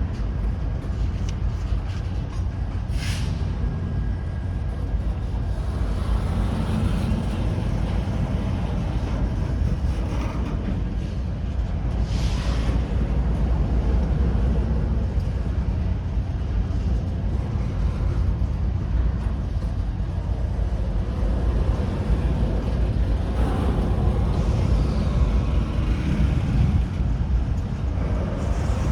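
Freight train rumbling steadily, with short hisses of air twice, about 3 and 12 seconds in.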